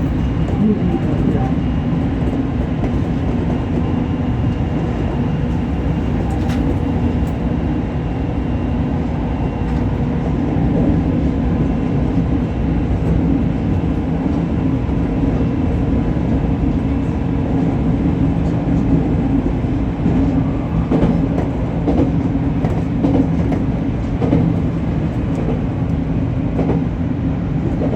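JR Kyushu 813 series electric train running along the line at a steady speed, heard from inside the car: a dense rumble of wheels on rails with a steady electrical hum and scattered faint clicks from the track.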